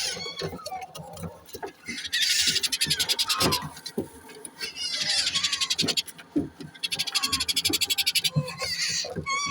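A brood of parrot chicks giving rasping, rattling begging calls in three bursts of a second or more each, with short chirps and soft knocks in between.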